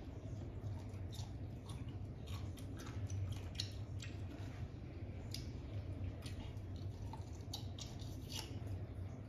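A person biting and chewing a whole raw lime, peel and all: wet, squishy mouth sounds with scattered small crunches and clicks, over a steady low hum.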